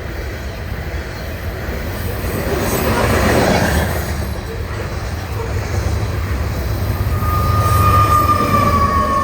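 Union Pacific grain train rolling past: a steady low rumble of freight cars on the rails that swells about three seconds in. Near the end, a high wheel squeal sets in and slides slightly down in pitch.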